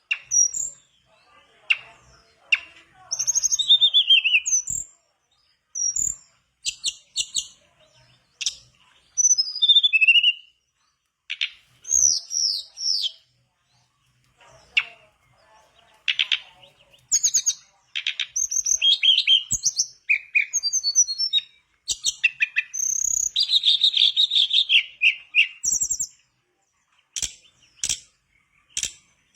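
Mangrove blue flycatcher (tledekan bakau) singing: a run of short, varied high whistled phrases with gliding notes and quick trills, broken by brief pauses, with a few sharp clicks in between.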